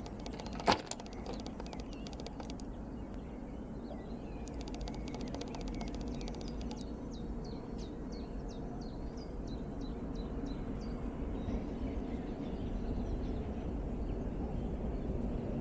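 Small birds chirping, with rapid high trills and a run of short falling chirps, and a single sharp click about a second in. Under it a low rumble slowly grows louder toward the end as a diesel locomotive approaches.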